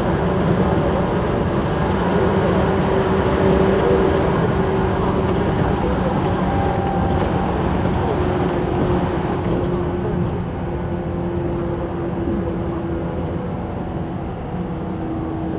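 JR 185 series electric train running, heard from inside the passenger car: a steady rumble of wheels on rail with a motor and gear hum. The hum sinks slightly in pitch, and the running noise eases a little after about ten seconds.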